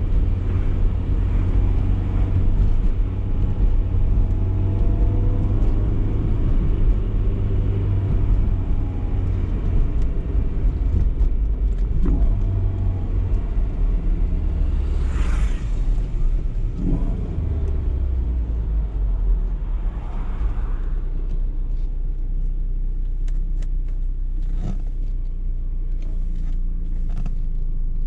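BMW E30 318is's four-cylinder engine running while driving, its note shifting in pitch during the first half, then settling into a lower, steadier hum. A brief rushing noise comes about halfway through.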